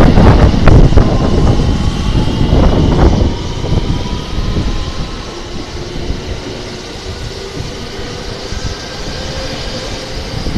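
683-series Thunderbird limited express passing through at speed: a loud rush of wheels on rail that fades over the first three seconds as the train moves away. A quieter rumble with faint steady whines from a JR West rapid train follows, and it grows louder near the end as the train comes alongside.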